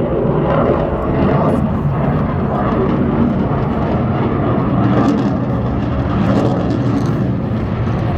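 An aircraft flying at an air show: loud, steady engine noise that holds at the same level throughout.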